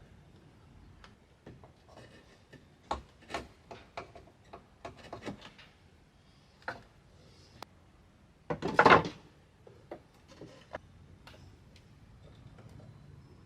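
Light knocks and clicks of objects being handled and set down, scattered irregularly, then a louder, longer clatter about nine seconds in.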